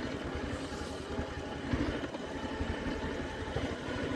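Motorcycle engine running steadily while being ridden, heard from the rider's own bike.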